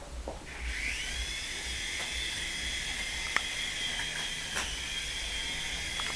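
Small electric motor of a toy helicopter spinning up about half a second in, then running at a steady high whine, with a few light clicks and taps, one sharper about halfway.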